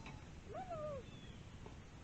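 An animal's call: one drawn-out call about half a second long, about half a second in, rising and then falling in pitch.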